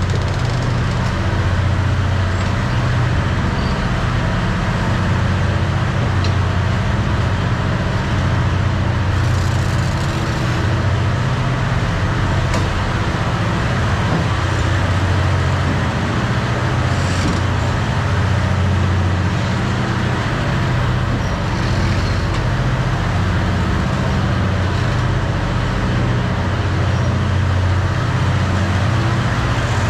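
A moving vehicle running steadily, a constant low drone that holds without a break.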